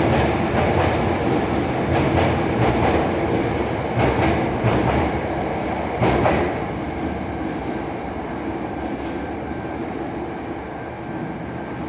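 Hankyu 9300 series electric train pulling out of the station. Its wheels click over the rail joints as the cars run past, and the running noise fades steadily over the second half as the train draws away.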